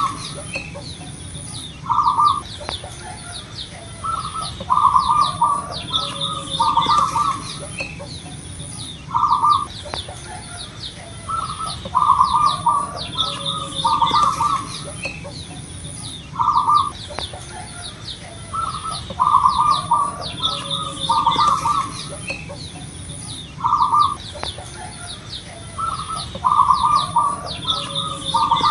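A zebra dove (perkutut) cooing in short phrases of quick, clustered notes, repeated every two to three seconds. Small birds chirp faintly and high behind it.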